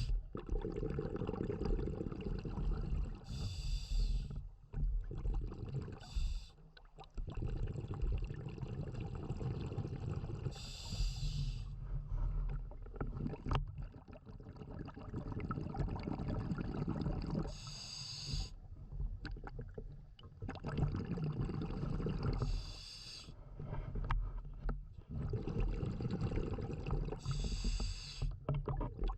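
Scuba diver breathing through a regulator underwater: five short hisses of inhalation through the demand valve, four to seven seconds apart, with the low bubbling rumble of exhaled air between them.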